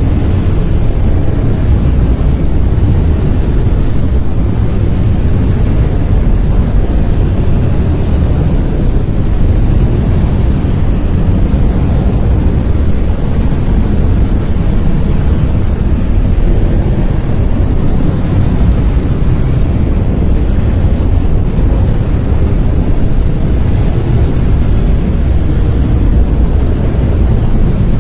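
Brown noise: a steady, deep rumbling hiss, strongest in the low end and thinning out toward the top, with no change in level.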